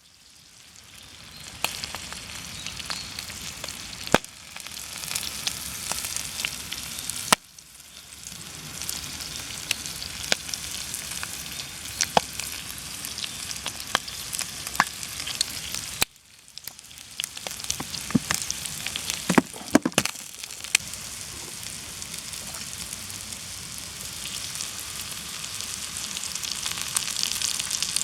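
Thick-cut bacon and eggs sizzling in a cast-iron skillet over a wood stove fire, with frequent sharp pops of spitting fat. The sound drops out briefly twice and swells back up.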